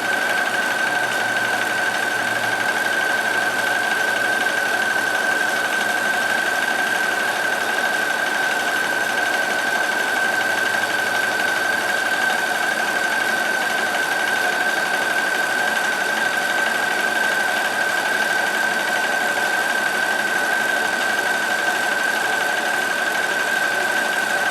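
Kenmore 158.1914 sewing machine running steadily at speed, sewing a multi-point zigzag stitch along a denim hem, its motor whine holding one pitch throughout.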